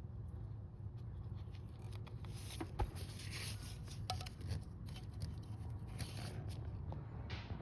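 Faint handling sounds: a few light clicks and brief rubbing scrapes as new rubber O-rings are worked into place on a coolant crossover pipe, over a low steady hum.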